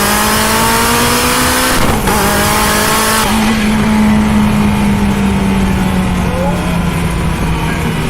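SSC Tuatara's twin-turbo V8 under hard acceleration, its pitch rising, then a brief break and drop in pitch about two seconds in, like an upshift, after which it pulls on at a steady, slowly drifting note.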